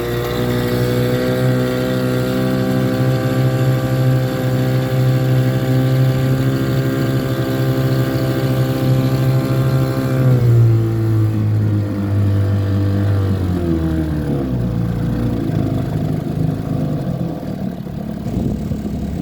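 1954 Evinrude Lightwin 3 hp two-cylinder two-stroke outboard running at full throttle with a steady note. About ten seconds in it is throttled back, and the pitch falls in two steps to a low running speed.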